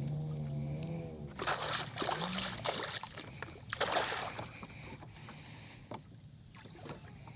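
Water splashing and sloshing at a kayak while a hooked speckled trout is fought, in two bursts in the first half, then quieter.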